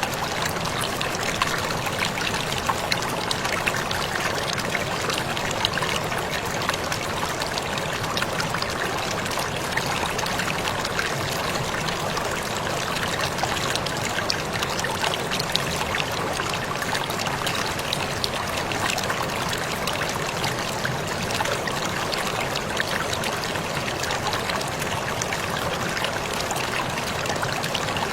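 Waterfall splashing steadily: a continuous rush of falling water, dotted with many small splashes, that does not change.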